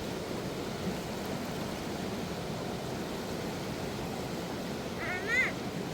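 Steady rushing of the flood-swollen Khersan River. About five seconds in, a short high call with a rise and fall sounds over it.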